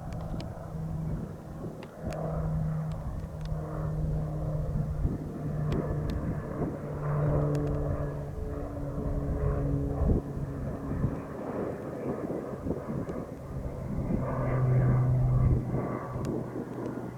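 Fixed-wing aircraft flying over with a steady engine drone. It grows loudest near the end, where its pitch drops as it passes.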